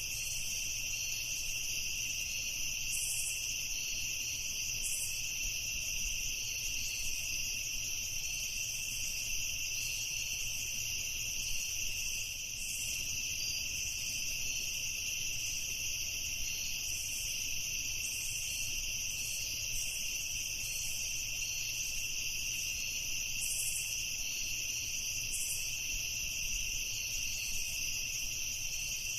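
Crickets chirping in a continuous, steady high-pitched trill, with a faint low hum underneath.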